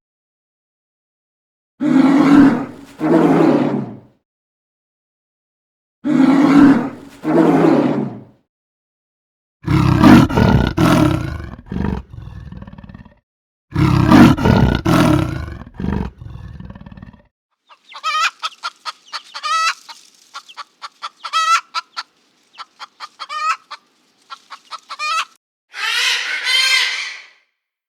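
A large animal roaring in loud paired calls, then deeper and heavier roars. After that a chicken clucks in quick runs of short notes, ending with one longer call.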